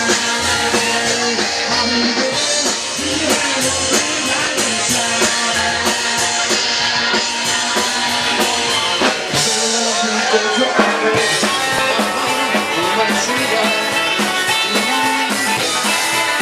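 Rock and roll band playing live, an instrumental stretch carried by drum kit and guitar.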